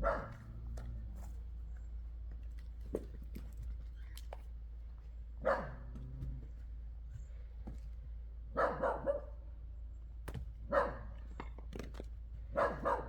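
A dog barking intermittently, about eight short barks, some in quick runs of two or three, over a steady low hum, with a few faint sharp knocks in between.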